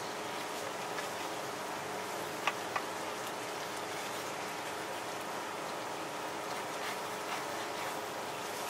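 Shredded-potato cakes sizzling as they fry on a large flat metal tray: a steady crackling hiss, with two sharp clicks about two and a half seconds in.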